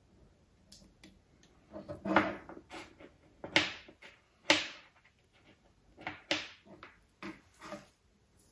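Hands handling small metal detector parts on a workbench while the control-shaft washers are coated with silicone grease: a scattered series of clicks and knocks, the sharpest about two, three and a half, four and a half and six seconds in.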